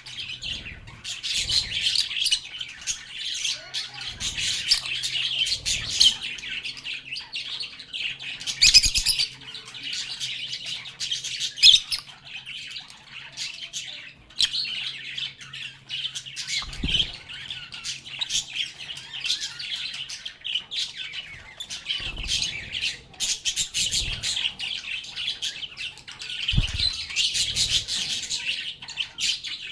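A group of lovebirds chattering non-stop with high chirps and squawks, with a few short low thumps in the second half.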